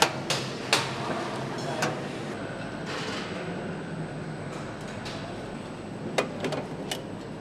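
Assembly-line ambience: a steady hum of machinery with scattered sharp clicks and knocks of tools and metal parts, several close together in the first two seconds and again near the end.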